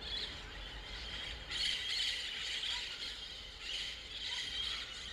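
A large flock of green parrots squawking and screeching together in a dense, overlapping chatter, louder from about a second and a half in.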